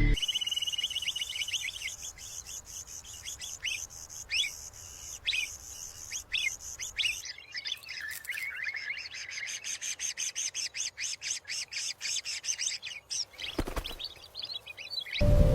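Rufous horneros calling: short shrill chirps, widely spaced at first, then a fast run of about six chirps a second through the middle. A single knock sounds near the end.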